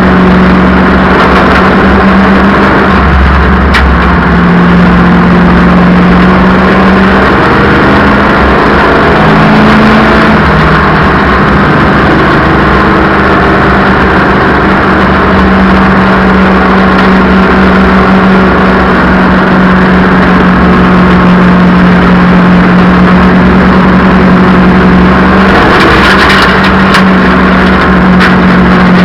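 Race car engine running hard at a short-track oval, very loud and nearly constant in pitch, with slight rises and dips in the first third.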